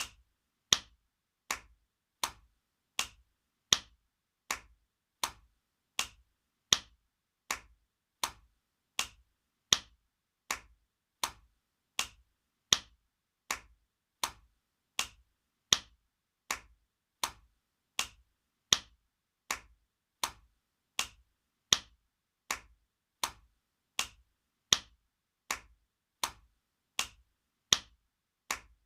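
Spanking sound effect: a sharp hand slap on skin repeated at an even pace, about four slaps every three seconds, some louder than others.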